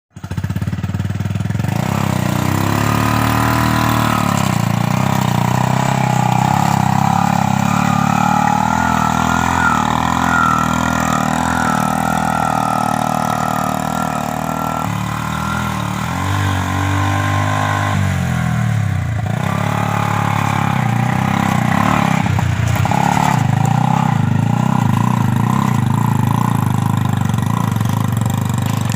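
Honda Revo Absolute motorcycle engine powering a homemade vehicle, running steadily with its pitch rising and falling as the revs change, dipping briefly twice about two-thirds of the way through.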